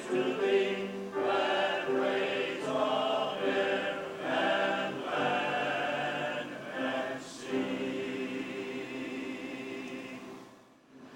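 A choir singing, the voices holding wavering sustained notes, then dying away to near silence just before the end.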